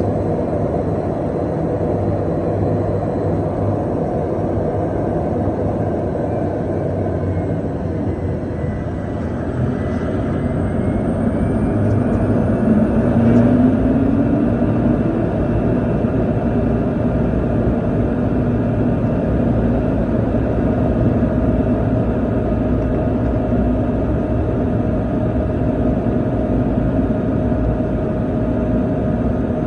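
Pilatus PC-12's single PT6A turboprop engine and propeller running at high power on the takeoff, a steady heavy drone. About ten seconds in it grows louder and a tone rises in pitch, then holds steady.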